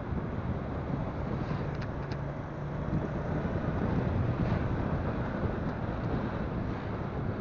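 Motorcycle on the move: its engine running steadily under heavy wind buffeting on a phone microphone, a dense low rumble with no distinct events.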